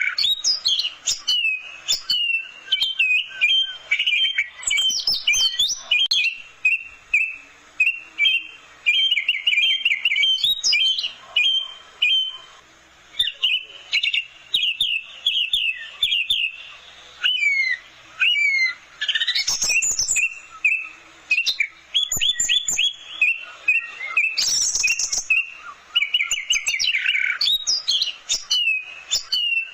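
Orange-headed thrush (anis merah) singing a long, continuous, varied song of quick whistled phrases and rapid trills, with a couple of harsh, scratchy notes partway through.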